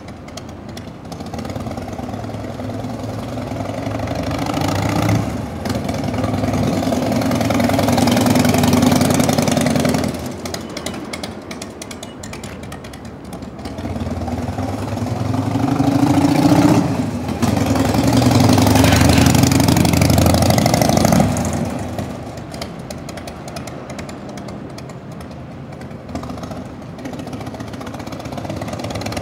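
Harley-Davidson Evolution 1340 cc air-cooled V-twin engine of a 1996 FXDL Dyna Low Rider running, swelling louder twice and dropping back to a steadier, quieter run in between.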